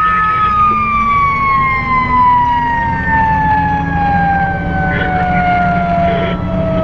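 Fire engine siren, one long wail falling slowly and steadily in pitch, over the low rumble of the truck's engine.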